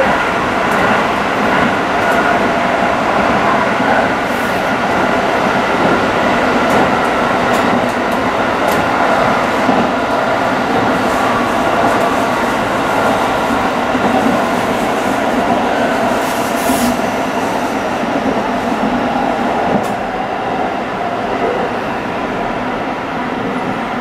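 Tsukuba Express train running on its line, heard from inside the rear cab: a steady rumble of wheels on rails with a steady hum over it, a little quieter near the end.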